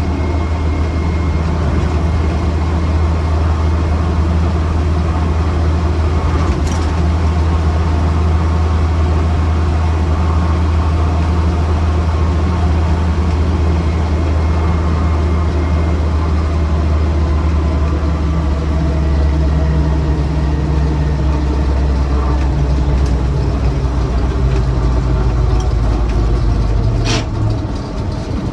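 1979 Land Rover Series 3 Lightweight's 2.25-litre four-cylinder engine running steadily while driving, with a sharp click about six seconds in and another near the end as the engine note drops away.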